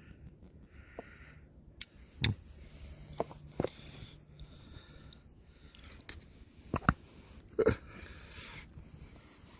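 Scattered sharp clicks and knocks from a camera being handled and moved in close, with faint breathing noise between them.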